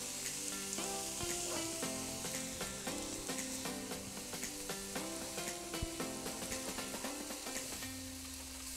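Zucchini noodles with garlic and oil sizzling in a hot sauté pan, a steady frying hiss. Background music plays under it.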